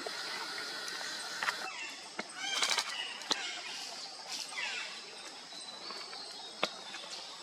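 Birds calling in forest over a steady background hiss: scattered chirps, a quick flurry of sharp notes about two and a half seconds in, and a falling whistled call a couple of seconds later.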